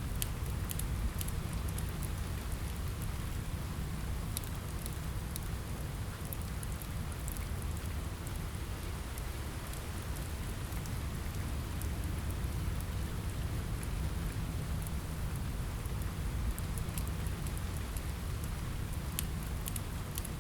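Steady rain on a window with a low rumble, mixed with the scattered sharp pops of a crackling wood fire.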